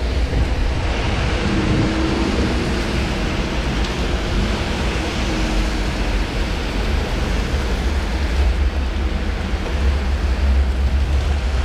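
Heavy rain pouring down in a steady rush, with wind buffeting the microphone in a low rumble that grows stronger near the end.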